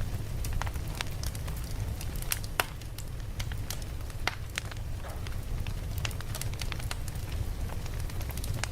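Campfire burning: wood crackling and popping in irregular sharp snaps over a steady low rumble.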